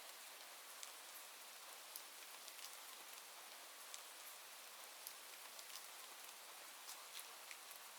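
Quiet, steady rain hiss with scattered small ticks of drops falling at irregular moments.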